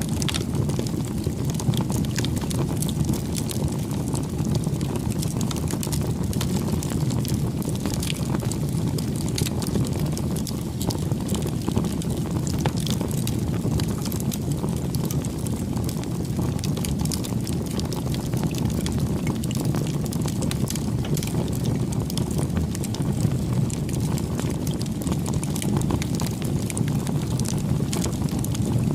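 Campfire burning: a steady low rumble of flames with frequent small, irregular crackles and pops.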